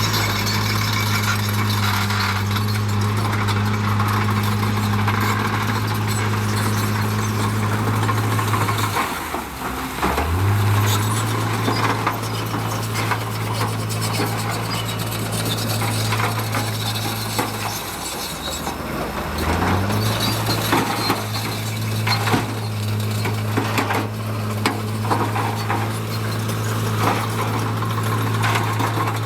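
Heavy diesel engine of earthmoving equipment revving up and holding a steady high speed three times, dropping back briefly in between, with many small clanks and scrapes throughout.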